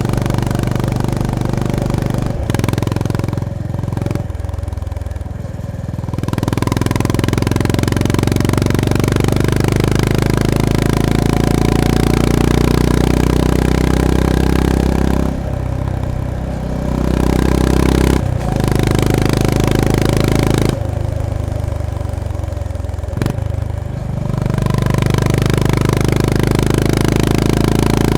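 Honda GB350S (CB350RS) single-cylinder engine and exhaust pulling hard under throttle, backing off several times between pulls: about 2.5 s in, again for a couple of seconds after that, and twice more later, before pulling again.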